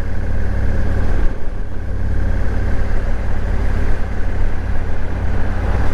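Motorcycle engine running at a steady cruising speed, overlaid by heavy wind rumble buffeting the microphone.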